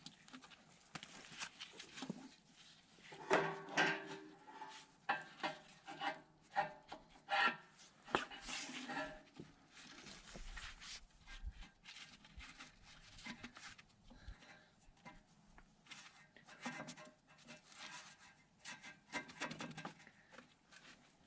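A hydraulic hose being worked into place on a backhoe stabilizer: irregular rubbing and scraping of hose against metal, with clicks and clinks of the fittings, busiest a few seconds in.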